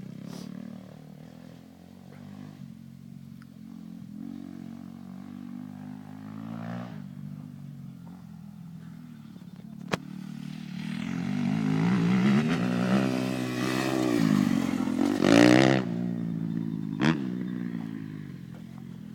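Motocross bike engine revving up and down through the gears as it rides the track, growing louder through the second half and then easing off near the end. A sharp click cuts in about halfway through.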